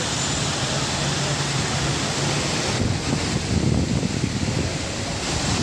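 Waterfall: a steady, loud rush of falling water. For a couple of seconds around the middle the hiss dulls and low, uneven buffeting comes in.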